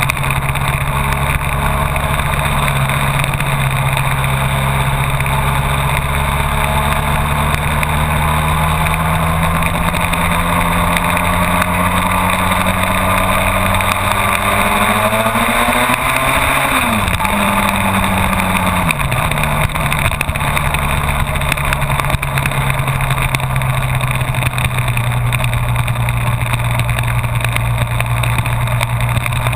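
Honda VFR1200F V4 motorcycle riding at road speed under heavy wind noise. Halfway through, an engine note climbs slowly for several seconds, then drops sharply, and a second falling note follows.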